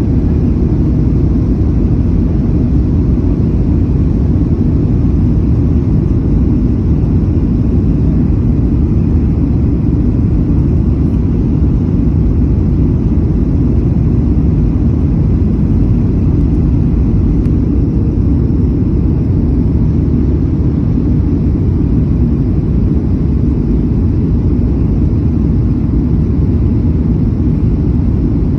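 Airliner cabin noise: a steady low rumble of engines and airflow with an even level, heard from inside the passenger cabin.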